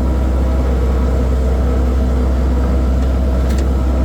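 Skid steer loader's diesel engine running steadily, heard from the operator's seat, with a brief click about three and a half seconds in.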